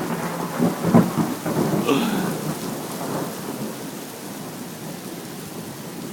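Thunder rumbling and crackling after a lightning flash, dying away over the first three seconds, with steady rain falling throughout.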